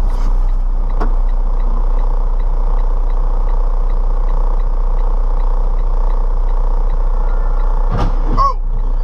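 Car on the road recorded by a dashcam: steady road and engine noise with a strong low hum and faint regular ticking. About eight seconds in comes a sharp knock with a brief falling squeal.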